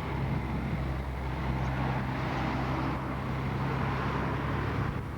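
A motor or engine running steadily, a low even hum under a rushing noise.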